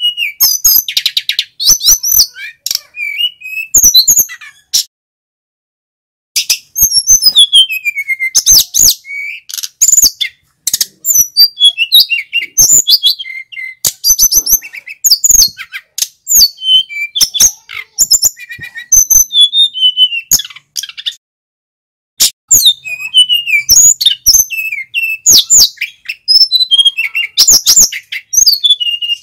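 Male sikatan gunung flycatcher singing loudly: fast runs of high whistled notes mixed with rapid chattering trills, in long bursts broken by two short pauses.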